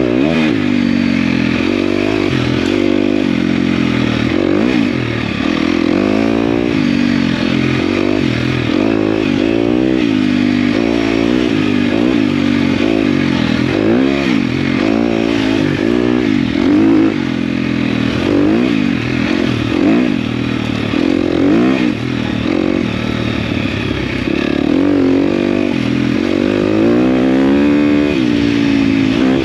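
KTM dirt bike engine being ridden, revving up and dropping back every second or two as the throttle is opened and closed.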